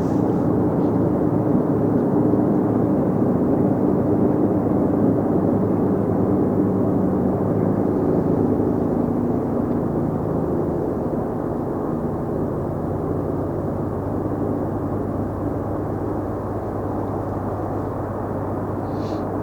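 Passing train: diesel locomotive engines running with a steady rumble and low drone, getting slowly quieter over the second half.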